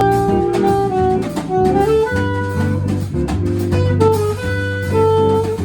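A jazz quartet playing: a melody line moving note to note over low bass notes and a drum kit with cymbal strokes.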